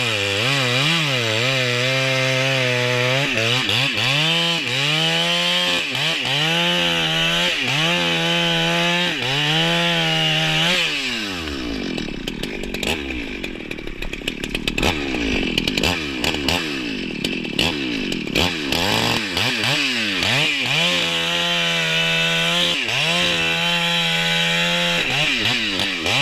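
Husqvarna 394XP two-stroke chainsaw revving up and down repeatedly. About a third of the way in its pitch drops and sags for several seconds as it cuts under load through wood. Near the end it revs high again.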